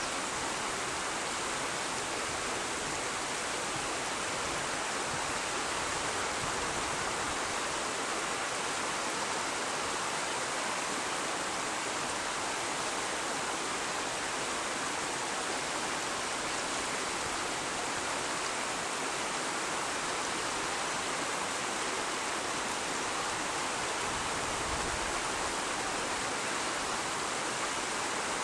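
River water running steadily, a constant even rush with no breaks.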